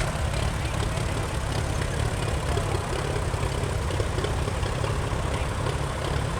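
Vintage tractor engine running steadily, a low pulsing engine note.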